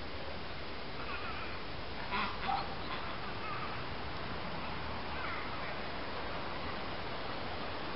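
Faint, short bird calls over a steady background hiss, a few around one to three seconds in and again about five seconds in.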